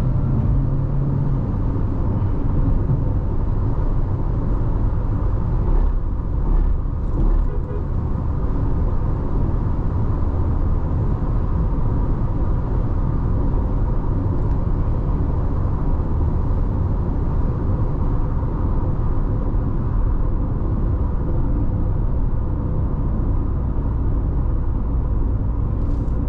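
Steady road and engine noise of a Nissan Tekton's 1.3-litre turbo petrol engine and tyres while the car drives at highway speed, a continuous low rumble.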